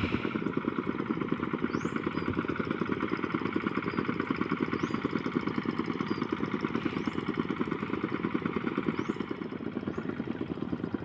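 Small motorcycle engine running steadily with a fast, even pulse.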